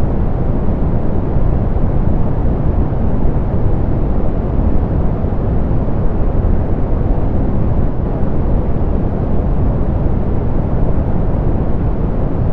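Steady soft pink noise: an even, unchanging hiss, heavy in the low end and dull at the top, with no tones or events.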